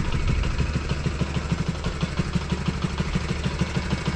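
Single-cylinder engine of a UM RS 125 motorcycle idling steadily, with an even rapid pulse.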